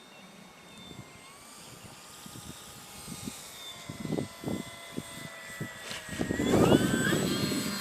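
Electric RC model airplane's motor and propeller whining as it flies by. The whine rises in pitch and gets much louder near the end as the throttle goes up for a touch and go. Gusty wind rumbles on the microphone throughout.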